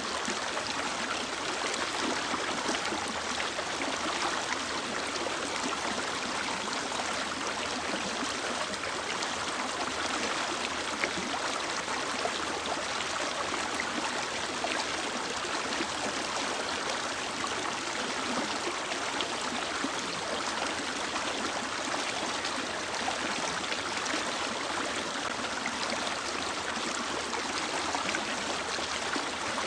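Mountain stream flowing, a steady rushing of water over rocks.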